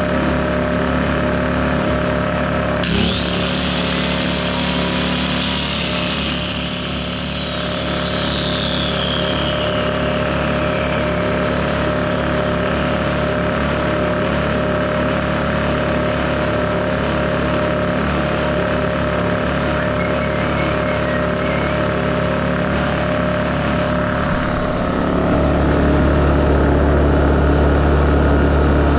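Honda EU2000i inverter generator's small single-cylinder four-stroke engine running steadily after a cold restart from years of storage. A high whine falls in pitch a few seconds in, and about 25 s in the engine picks up and runs louder.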